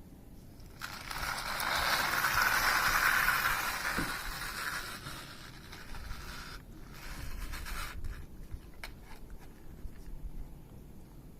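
Loose earth pouring from a backhoe loader's bucket into a tractor trolley: a gritty, scraping rush that swells for about five seconds, then a shorter second pour.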